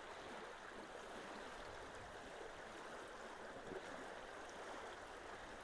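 Swollen creek water rushing steadily into a road culvert.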